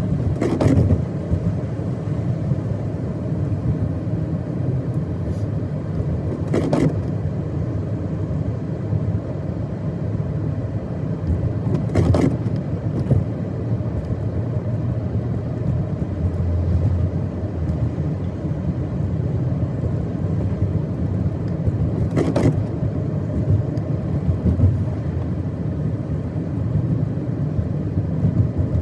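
A car driving on a snow-covered road: a steady low rumble of engine and tyre noise, broken by four brief sharp sounds spread through it.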